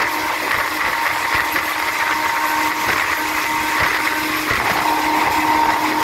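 Running noise of a moving train heard at an open coach window: wheels on the rails and the coach rattling, steady throughout with a faint steady whine over it.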